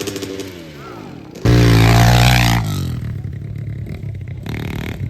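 Dirt bike engine dropping in pitch as it eases off, then a sudden loud burst of revving about a second and a half in that lasts about a second, before settling back to a lower running sound.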